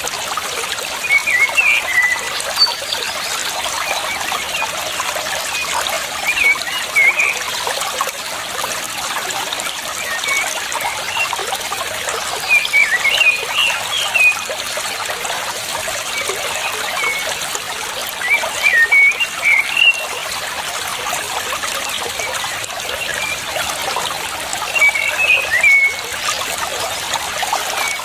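Water trickling steadily, with a small songbird singing short chirpy phrases over it about every five or six seconds.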